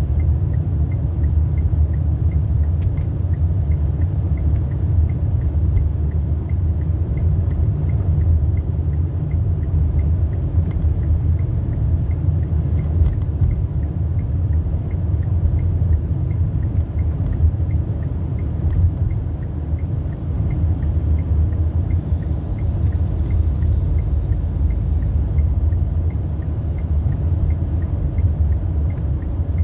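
Steady low road and engine rumble inside a moving car's cabin, with a faint, even ticking.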